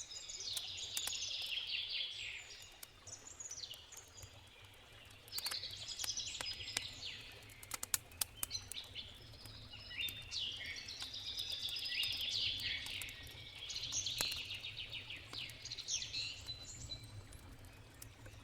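Forest songbirds singing in repeated warbling phrases, with sharp crackles and pops from a wood campfire, thickest about five to nine seconds in. Under them runs the low steady rush of a river.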